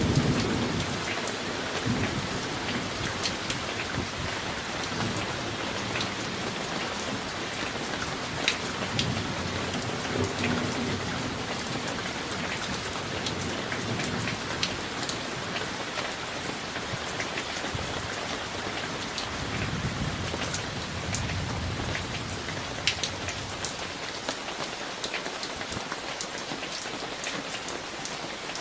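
Summer thunderstorm: steady rain hissing, with individual drops ticking sharply close by. Low thunder rumbles at times, near the start and again about two-thirds of the way through.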